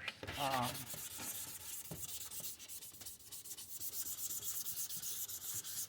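Hand sanding of a plastic headlight lens with sandpaper: rapid back-and-forth scraping strokes.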